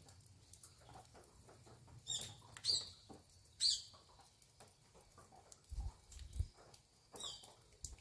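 Birds chirping in short, high calls that fall in pitch, four times over a few seconds, with a couple of low rumbles near the end.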